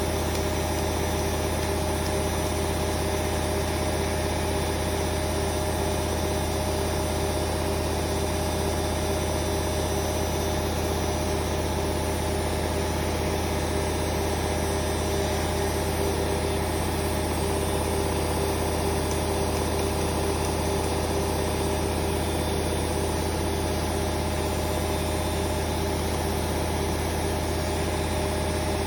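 Hoover Vision Dynamic washing machine on a spin-only cycle, spinning at a steady speed: an even drum and motor hum with a constant whine that neither rises nor falls.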